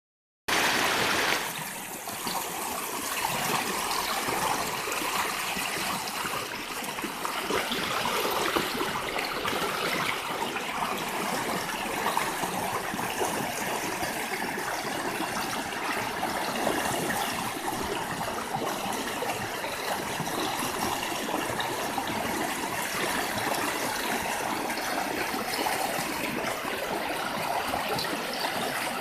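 Mountain valley stream flowing over rocks: a steady wash of rushing water, a little louder for its first second.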